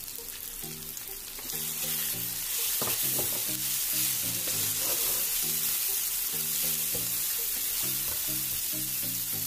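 Onions, tomatoes and green chillies sizzling in hot oil in a frying pan while a slotted spatula stirs them; the sizzle grows louder about a second and a half in. Soft background music with steady low notes plays underneath.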